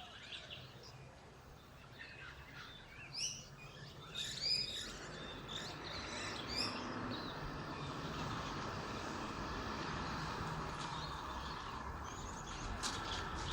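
Birds chirping in short calls over a steady low hum, with a broad rushing noise that builds up through the second half.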